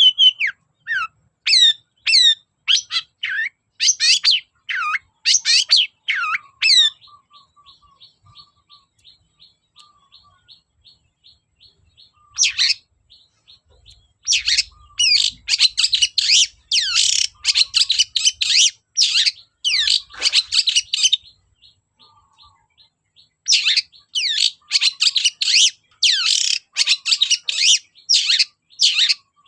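Long-tailed shrike (cendet) singing in loud, rapid phrases of sharp sweeping notes. It breaks in the first half for a quieter run of fast, evenly repeated ticks, then resumes in dense bursts.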